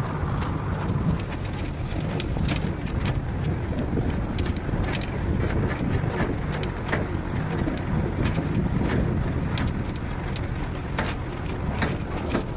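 Borewell drilling rig running: steady, loud engine noise with irregular sharp knocks throughout.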